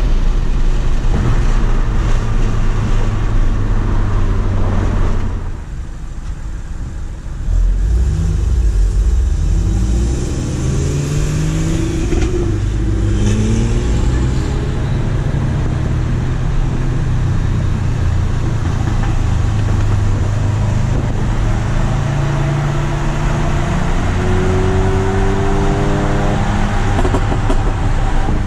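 Turbocharged 2.0 L four-cylinder of an APR Stage 2 tuned MK7 Volkswagen GTI with a CTS downpipe, heard inside the cabin. It drones at cruise, drops away for about two seconds off the throttle, then pulls hard, its pitch rising in several runs broken by gear changes of the six-speed manual, with a long rising pull near the end.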